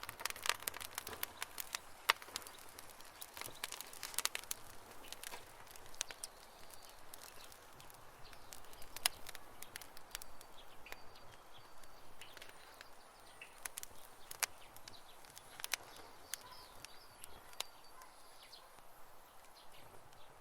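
Campfire burning: wood crackling and popping in sharp snaps, densest in the first few seconds and sparser after, over a faint steady hiss.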